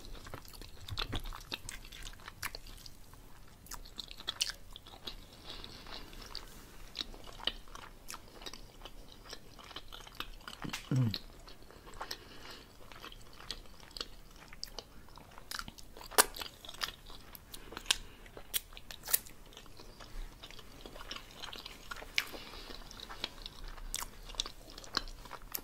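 Close-miked chewing of tender pork roast: wet mouth and lip-smacking clicks, with a brief low hum of the voice about halfway through.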